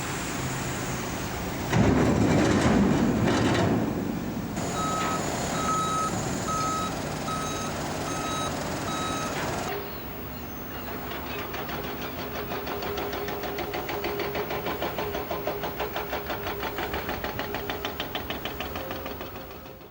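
Vehicle reversing alarm beeping evenly at one pitch, about one and a half beeps a second, over steady engine noise, with a louder surge of noise just before it. After the beeps stop, a fast rhythmic mechanical ticking grows louder.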